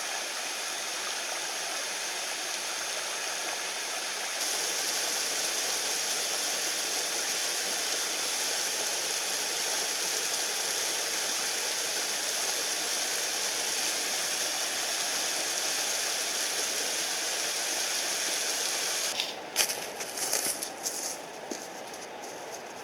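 Mountain stream rushing over rocks, a steady hiss of flowing water that gets louder about four seconds in. Near the end a few sharp knocks, after which the water sounds quieter.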